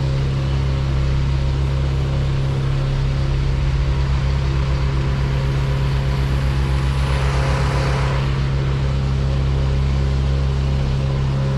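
An engine running at a steady speed, with a short rush of noise about seven seconds in.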